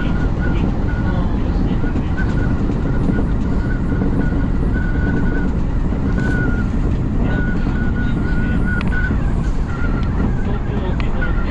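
Odakyu Line commuter train running on the line: a loud, steady rumble of wheels on rail, with a thin high squeal that comes and goes every second or so.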